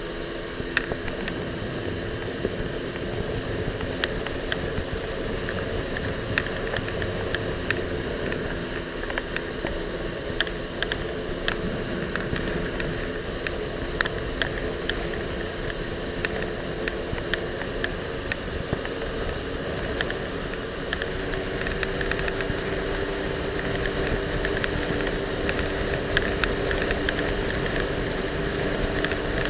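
Jet ski engine running steadily under way, its note shifting about two-thirds of the way through, with a rush of wind and water. Frequent sharp ticks and knocks come from the action camera rattling where it is loosely attached to the life vest.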